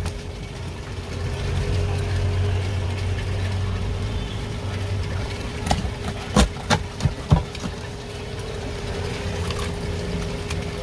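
Steady low machine hum with a constant tone, louder for the first few seconds. A handful of sharp knocks come in a quick cluster around the middle.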